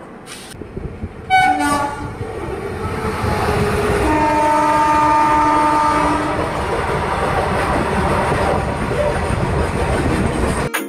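Passenger train rumble and wheel clatter heard at the open coach door, growing louder as the train pulls away. A short falling squeal comes about a second and a half in, and one long locomotive horn blast of about two seconds sounds around four seconds in. It all cuts off suddenly near the end.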